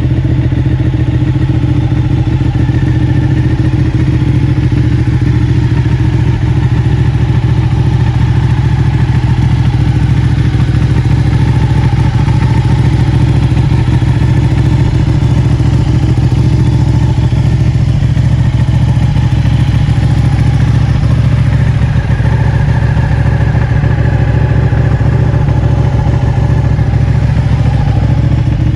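Ducati Panigale 959's 955 cc Superquadro V-twin idling steadily through a full-system Akrapovic exhaust, loud and even throughout with no revs.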